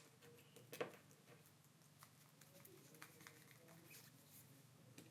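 Faint plastic clicks of a Samsung Galaxy A03s back cover being pressed around its edges and snapping into its clips: one clearer click just under a second in, then scattered softer ones. The clicks show the cover is seating properly.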